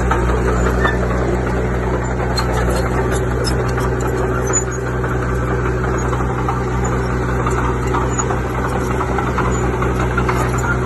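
Heavy diesel earthmoving machine's engine running steadily, with scattered metallic clicks over its even hum.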